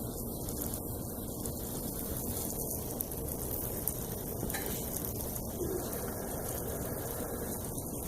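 Steady hiss of pressurised water spraying from a pinhole leak in a 2-inch water pipe.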